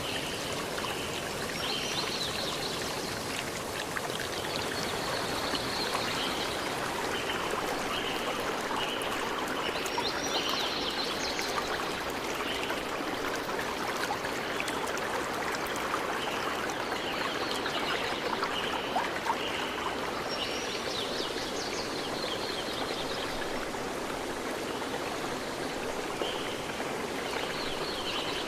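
A river stream flowing steadily over rocks, a constant rushing babble. Birds call over it in short repeated high notes, with brighter chirps now and then.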